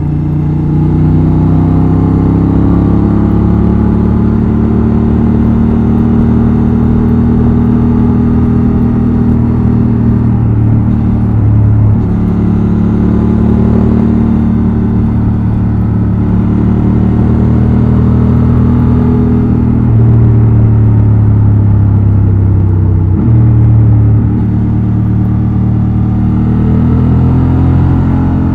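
Honda XL750 Transalp's 755 cc parallel-twin engine and exhaust running under way, its pitch climbing and easing with the throttle and briefly breaking a few times.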